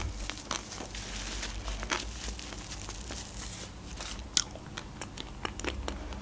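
Quiet, close-miked chewing of chocolate-coated ice cream, with small crunches and crackles from the chocolate shell and a sharp click about four seconds in. A paper napkin rustles against the mouth near the start.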